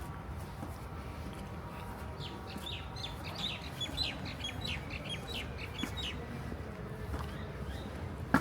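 Small birds chirping: a quick run of short, high chirps for a few seconds in the middle, over a steady low rumble.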